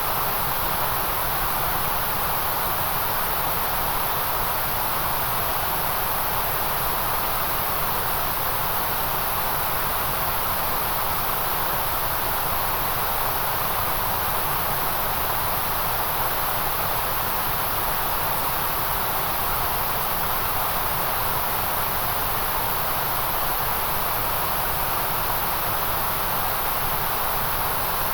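Steady synthetic white noise: an even, unchanging hiss across the whole range, brightest in the upper treble and around the middle.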